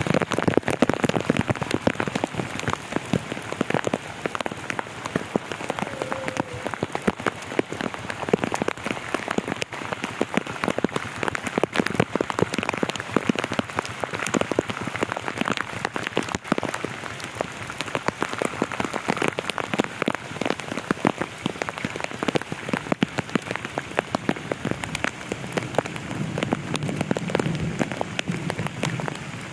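Heavy rain falling steadily, a dense run of individual drops striking the ground and nearby surfaces.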